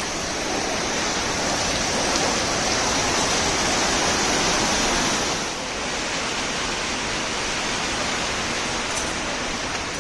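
Heavy rain falling, a steady rushing noise that eases slightly a little past halfway.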